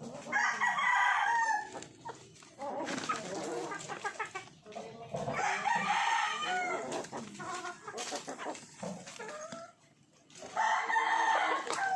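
Chickens calling: a rooster crows about half a second in and again near the end, with clucking and more calls in between.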